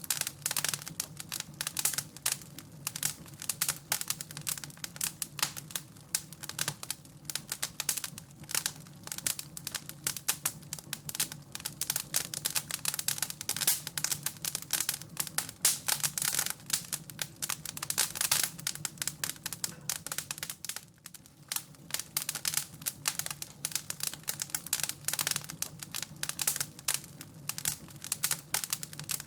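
Wood fire crackling steadily in a fireplace, a dense run of irregular pops and snaps over a low steady hum.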